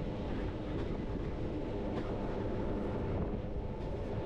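Bernese Oberland Railway narrow-gauge train running along the line: a steady rumble of wheels on rail, with a few faint clicks.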